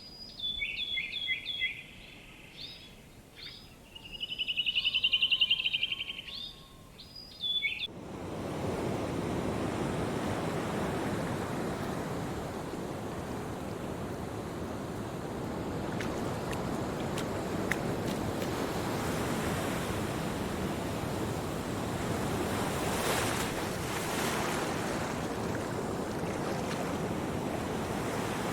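Birds chirping, with a loud trill about five seconds in. About eight seconds in, this cuts to a steady rush of ocean surf.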